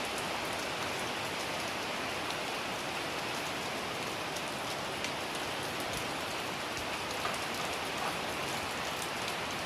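Steady rain falling and pattering on surfaces, a constant hiss with many small drop ticks.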